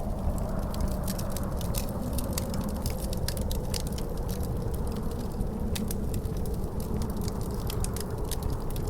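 Wood fire crackling in a fireplace, with many sharp, irregular pops, over a steady low roar of wind.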